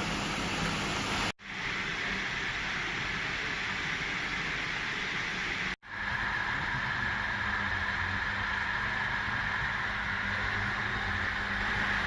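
MST Micro Master egg washing machine running: a steady hiss over a low, even hum. The sound cuts out twice, briefly, and comes straight back.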